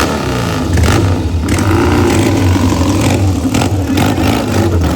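Classic motorcycle engine running loud, with its pitch wavering as it is revved.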